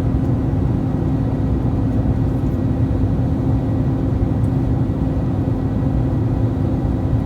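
Steady cabin noise inside an Airbus A321-231 airliner: a constant rumble of engines and airflow with a steady low hum.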